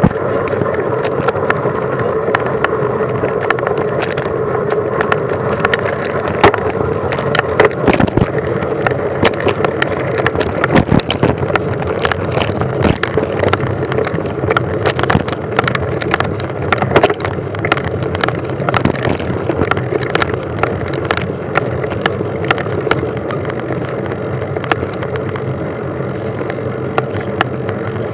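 A vehicle rolling over a rough track: a steady running noise with constant rattles and short knocks.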